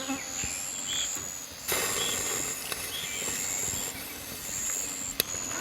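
Insects trilling in repeated high-pitched pulses, each under a second long with short gaps between, with a couple of sharp clicks.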